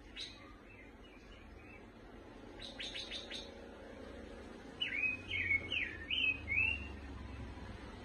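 Caged pancawarna bird chirping: a single short chirp right at the start, a quick rattle of sharp notes about three seconds in, then the loudest part, a run of five or six quick up-and-down chirps from about five to seven seconds.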